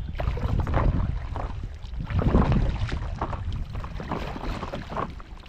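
Paddleboard paddle strokes dipping and splashing in the water, irregular and a little under a second apart, over a steady low rumble of wind on the microphone.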